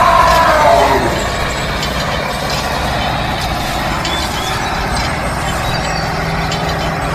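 A motor running steadily with a low, even hum, as of a working vehicle engine; a pitched sound falls away during the first second.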